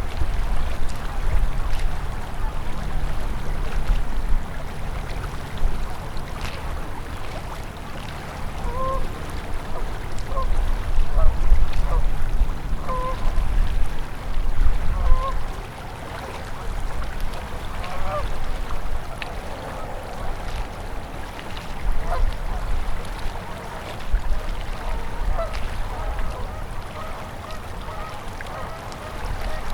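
A winter river flowing steadily under a low rumble. From about a third of the way in, waterfowl call in short, repeated honks and quacks over the water.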